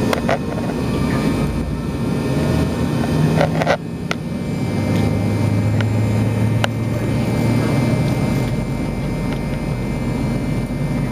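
Cabin noise of an MD-88 airliner with its rear-mounted Pratt & Whitney JT8D engines running, heard from a rear-cabin seat: a steady low drone that builds over the first couple of seconds, with a few sharp rattles from the cabin.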